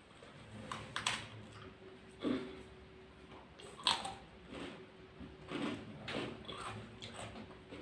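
A person chewing a Marie Gold biscuit: a scatter of short, soft crunches at irregular intervals, with a faint steady hum beneath.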